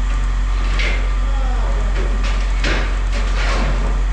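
A steady low engine hum, with a few short clattering knocks and scrapes over it and faint distant voices.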